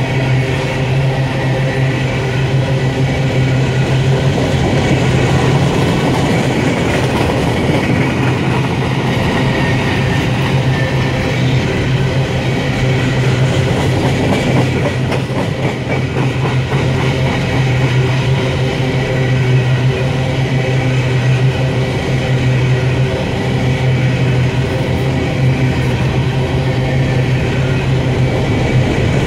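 Empty covered hopper cars of a freight train rolling past, with a steady loud rumble and a rapid run of wheel clicks over the rail joints.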